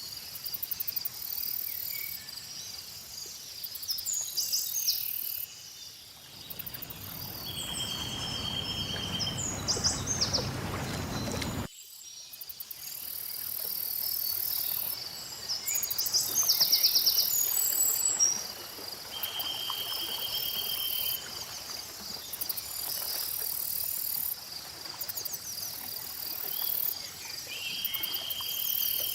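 Lakeside nature ambience: insects keep up a steady high trill while birds chirp and give short trills on and off. For about five seconds in the first half, low, even water-lapping noise comes in, then cuts off abruptly.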